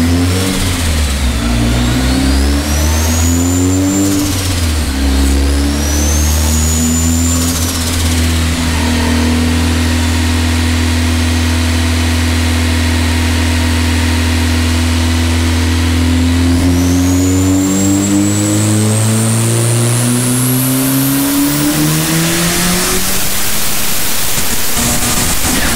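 Turbocharged SR20DET inline-four in a Nissan 300ZX making a pull on a chassis dyno. The revs rise and dip a few times, hold steady, then climb steadily from about two-thirds of the way in, with a high whine rising alongside, before dropping off at the end as the throttle is released.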